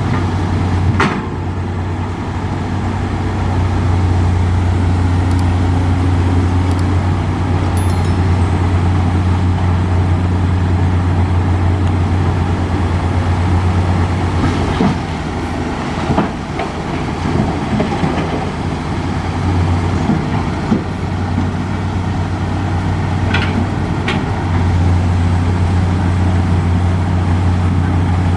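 Nissan Diesel truck engine running with a steady low drone that eases briefly twice, with a few sharp knocks over it.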